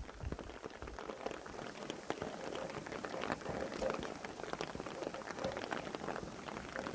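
Steady rain falling on a surface: a dense, even patter with many separate drops ticking through it.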